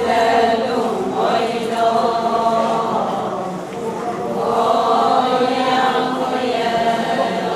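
Ponung chorus: many voices chanting together in unison, holding and sliding the notes of the song's refrain in answer to the lead singer's call.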